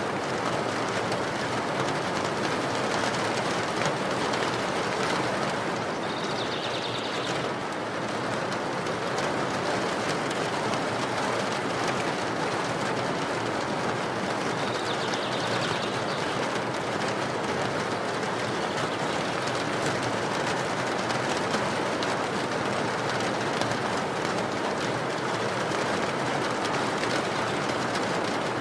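Steady rain falling, a constant even hiss. A bird calls faintly and high twice, about six and fifteen seconds in.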